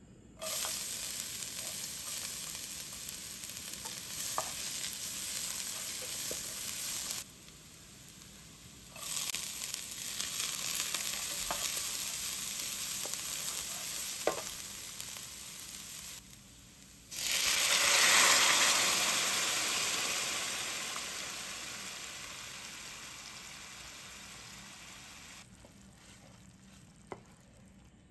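Minced garlic and chili sizzling in hot olive oil in a frying pan, stirred with a wooden spoon, with a few light spoon ticks. The sizzle cuts out twice, then comes back much louder about seventeen seconds in and slowly dies away.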